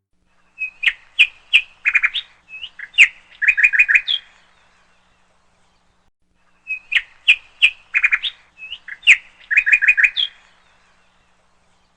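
A bird calling: a quick phrase of sharp chirps and short trills, given twice with a gap of about two seconds between.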